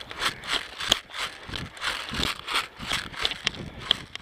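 Footsteps crunching through dry leaves and brush, irregular steps a few per second, with a couple of sharper clicks.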